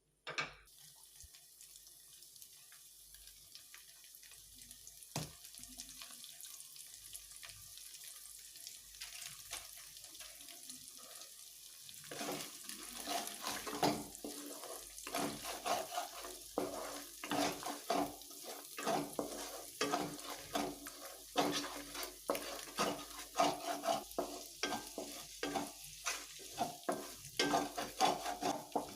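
Food sizzling in a pan with a steady hiss. From about twelve seconds in, a spatula stirs and scrapes through it in quick repeated strokes.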